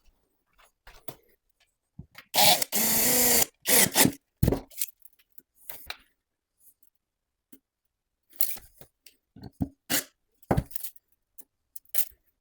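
A power tool runs in one short burst of about a second, with a wavering whine, followed by scattered knocks and clicks of tools and material being handled.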